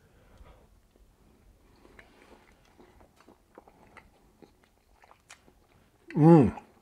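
A man chewing a bite of ham steak: faint, scattered small clicks and mouth sounds. Near the end comes one loud, short sound from his voice that falls in pitch.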